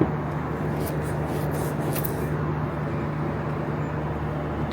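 A steady low mechanical hum with a constant rushing noise over it, unchanging throughout.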